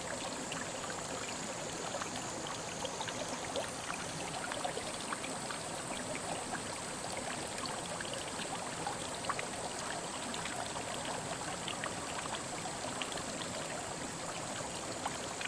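Mountain headwater stream babbling steadily, with many small splashes and drips through the even rush of water.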